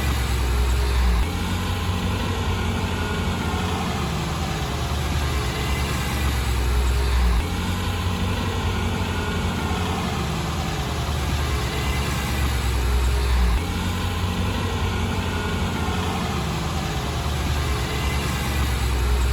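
Heavy diesel engine of earthmoving machinery running steadily. A deeper low rumble swells for about a second roughly every six seconds.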